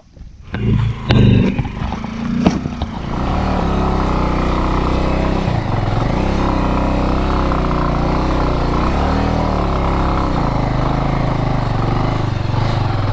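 Motorcycle engine pulling away over a rough rocky track, with a few sharp knocks and clatter in the first couple of seconds, then running steadily with small rises and falls in pitch as the throttle changes.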